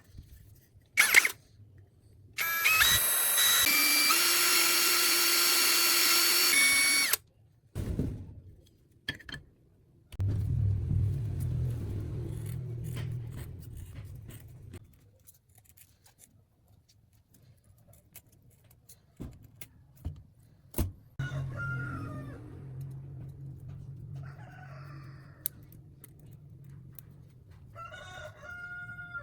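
An electric power tool runs for about five seconds with a loud high whine that steps up in pitch once or twice, then stops suddenly. Workshop clicks and knocks are scattered around it, and there are stretches of lower rumbling.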